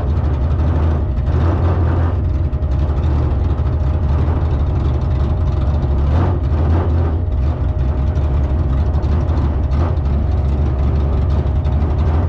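Car engine running steadily at low revs, a loud, even low engine note with no revving.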